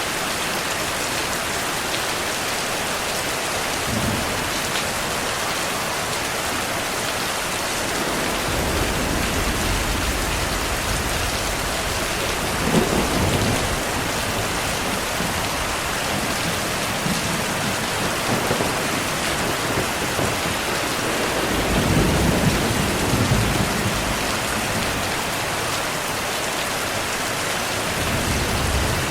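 Steady heavy rain with low thunder rumbling underneath from about eight seconds in. The thunder swells twice, around thirteen seconds and again around twenty-two seconds.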